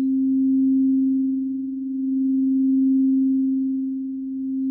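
Singing bowl sustaining one steady, pure tone, swelling and easing slowly in loudness, as a bowl does while it is rimmed.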